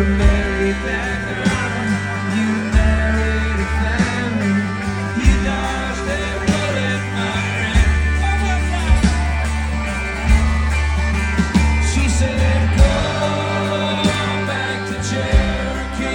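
Country band playing live: guitars over a bass line and drums keeping a steady beat.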